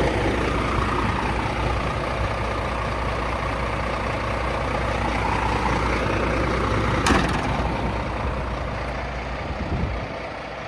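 Scania S500 truck's V8 diesel engine idling steadily, with a short sharp hiss of released air about seven seconds in. The engine sound breaks up and drops in level near the end.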